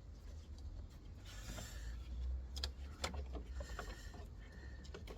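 Hand-tool work on metal: a short scraping rattle, then a few sharp metallic clicks, over a steady low background hum.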